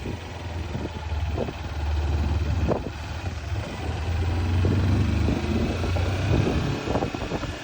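Motorcycle engine running while riding, with wind rushing over the microphone; the engine's low note swells through the middle and eases off near the end.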